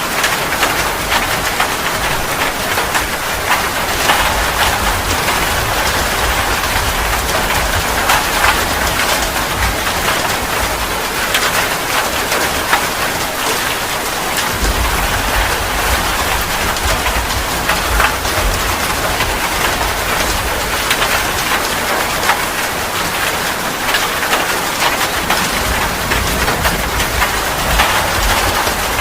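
Steady rain falling, a dense hiss of drops with many separate drop ticks on top. A low rumble swells and fades underneath at times.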